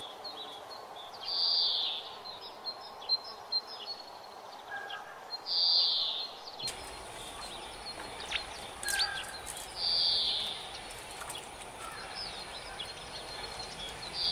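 A bird repeating a short call about every four seconds, over a few sharp knocks of a cleaver cutting fish.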